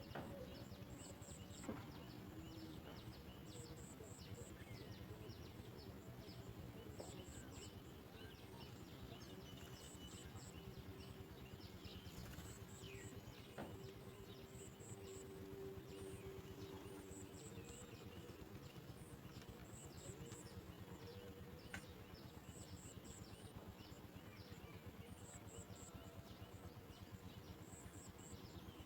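Faint outdoor ambience: very high-pitched chirps in short groups of three or four, repeating about every second and a half, over scattered small chirps and a faint low steady hum.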